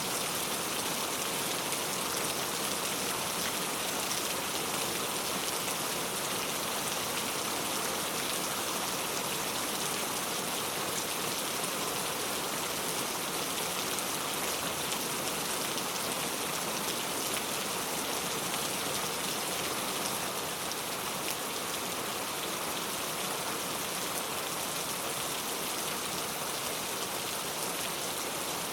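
Heavy rain falling steadily: a dense, even hiss of countless drops striking a surface.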